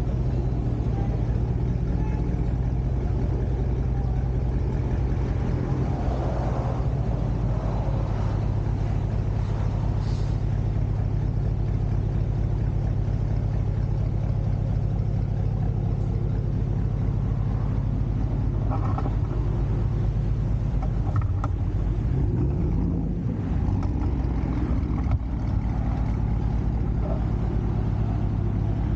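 2019 Chevy Tahoe's V8 idling through a freshly fitted three-inch cat-back custom exhaust, with a short rev that rises and falls about three-quarters of the way through.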